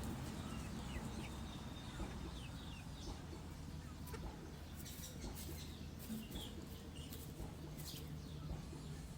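Scattered short, high-pitched chirps or peeps from small animals, several falling in pitch, over a steady low hum.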